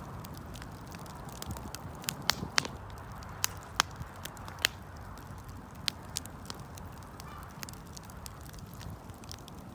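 Wood fire burning, with irregular sharp pops and crackles over a low steady rumble.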